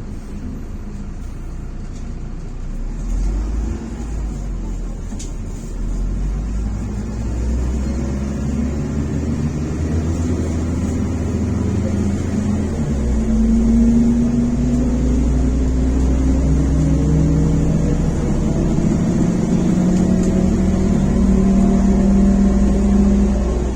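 MAZ-105 articulated bus's diesel engine heard from inside the cabin, pulling away and accelerating: the engine note rises and grows louder, with a gear change about halfway through, then runs on at a steady, slowly rising pitch.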